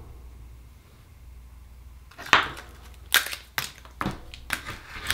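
Sharp, irregular clicks and cracks of hard oyster shell being handled and pried open, starting about two seconds in after a quiet pause.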